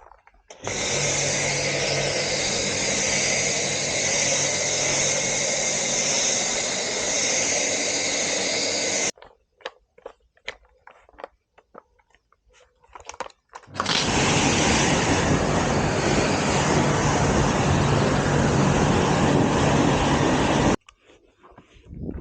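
A motor-driven cleaning machine runs steadily for about eight seconds and cuts off sharply. A few clicks and knocks follow, then it runs again for about seven seconds and cuts off.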